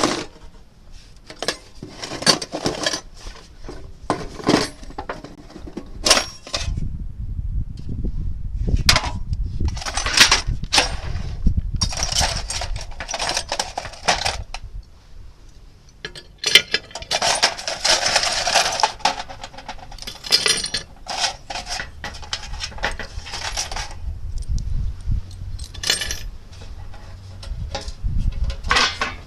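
Thin sheet-metal cookie tin being handled and worked, giving repeated metallic clinks, clanks and clatters, busiest about halfway through.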